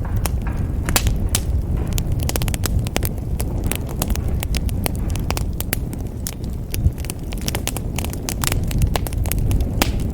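Wood fire burning in a fireplace, with frequent sharp crackles and pops over a steady low rumble of flames.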